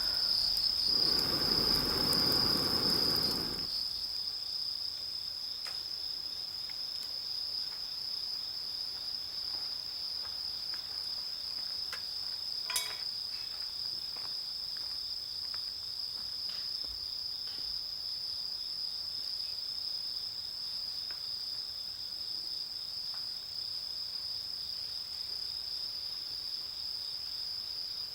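Insects trilling: a steady, continuous high-pitched note. A louder rushing noise lies under it for the first three seconds or so, and there is a single sharp click about halfway through.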